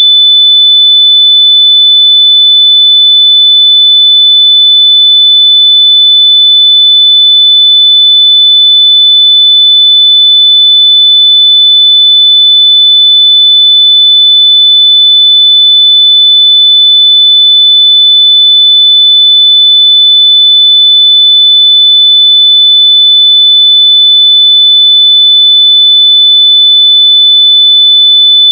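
A loud, steady, high-pitched electronic tone, a single pure pitch held without a break. It is played at full volume through wireless earbuds to locate them by ear.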